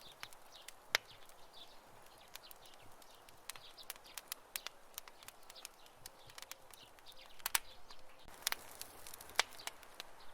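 Campfire burning with irregular crackling and sharp pops from the burning wood over a soft steady hiss; one loud pop about a second in and a cluster of louder pops near the end.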